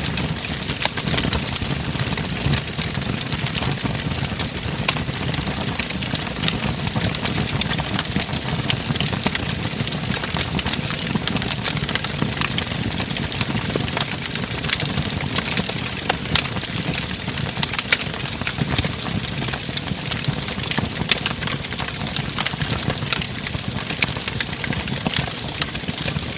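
Wood fire burning in a fireplace, crackling steadily: many small, irregular pops and snaps over a low, steady rumble of the flames.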